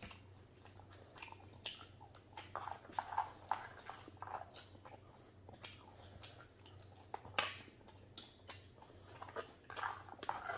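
Close-up chewing and lip-smacking of people eating spiced chickpea salad (chana sadheko), with many short sharp clicks of spoons in plastic bowls; the loudest click comes about seven seconds in.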